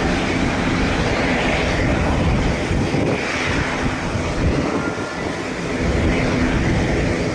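Aircraft engines running loud and steady, with wind buffeting the microphone.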